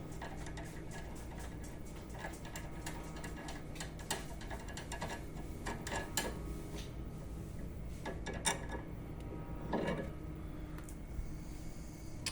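Scattered small metallic clicks and taps of hand work on a car's front suspension while a self-locking nut is fitted onto a new stabilizer link, over a steady low hum. A few sharper knocks stand out past the middle.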